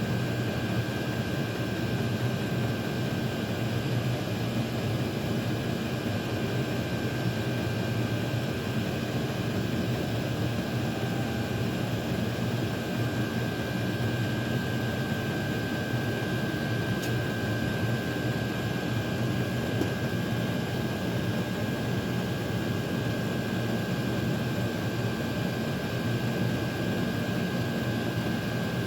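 Several Chinese diesel heaters' blower fans running steadily, a constant whirring rush with a low hum and a thin high whine, as the heaters go through their cool-down cycle.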